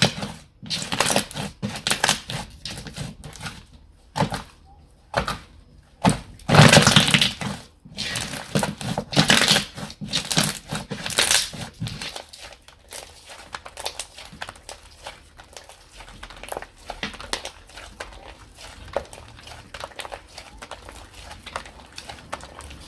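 Slime being squeezed, pressed and pulled by hand, making irregular crackling and squishing bursts. The bursts are louder in the first half, then give way to finer, quieter crackling.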